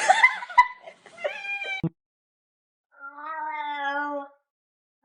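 Domestic cat meowing. A jumble of short cries and clicks comes in the first two seconds, then after a brief pause a single long, drawn-out meow.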